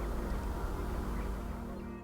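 Soft ambient background music over outdoor ambience: a low wind rumble and a few faint bird calls. The ambience fades out near the end, leaving only the music.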